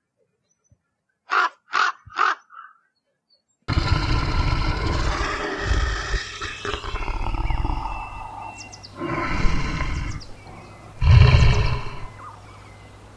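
Three short bird calls about half a second apart, then a different, louder animal recording cuts in: a deep steady rumble with rough animal calls that swell strongly twice, the louder near the end.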